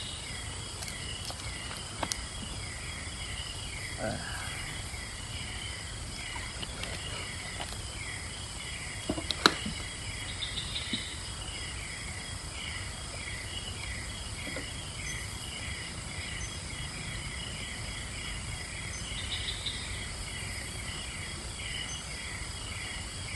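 Insects trilling and buzzing steadily, with a short falling chirp repeating about twice a second and a few brief higher trills. A single sharp click about nine seconds in is the loudest moment.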